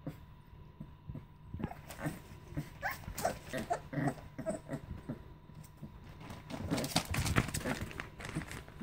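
American Staffordshire Terrier puppies making many short, squeaky little calls, followed about seven seconds in by a louder, busier stretch of short noises.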